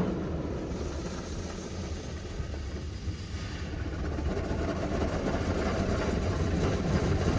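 High-pressure water jets of an automatic car wash blasting against the car, heard from inside the cabin as a steady low rushing rumble. The spray is strong enough to shake the car.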